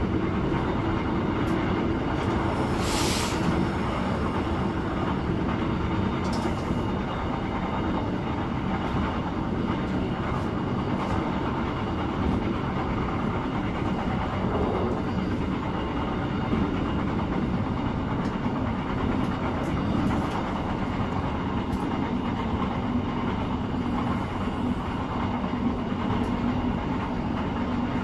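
Regional train running steadily at speed, heard from inside the passenger car: a steady rolling rumble with a smooth, gentle sound. There is a brief hiss about three seconds in.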